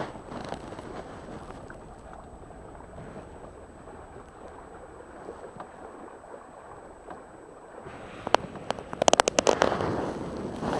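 Wind noise on the camera microphone aboard a sailing dinghy. A single sharp knock about eight seconds in is followed a second later by a fast run of sharp clicks or knocks.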